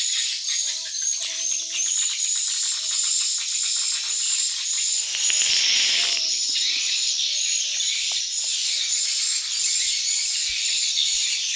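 Dense, continuous high-pitched twittering of swiftlet calls, many short repeated chirps overlapping without a break. A brief rush of noise swells and fades about halfway through.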